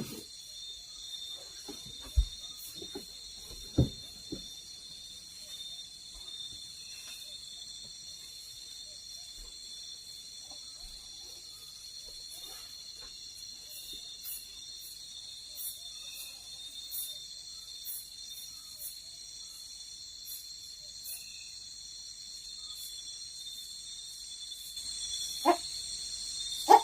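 A steady chorus of insects shrilling in several high, unbroken bands, with scattered faint clicks and taps. Two short loud knocks come about two and four seconds in, and a few sharper, louder sounds near the end.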